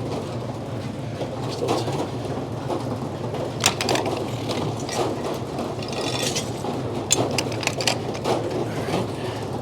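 Frick sawmill running with a steady low hum, with several sharp metal clanks and clicks, one a little under four seconds in and two more near the end.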